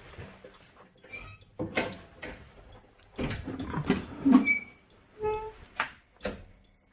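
School bus door being worked open: several knocks and clunks, the loudest in the middle, with a few short squeaks.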